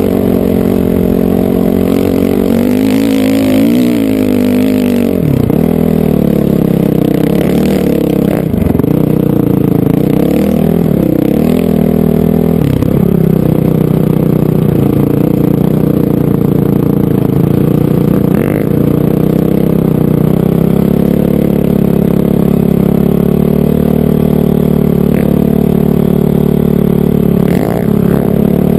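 Honda CRF450R dirt bike's single-cylinder four-stroke engine running under way, its pitch rising and falling as the throttle is worked, with brief drops in revs several times.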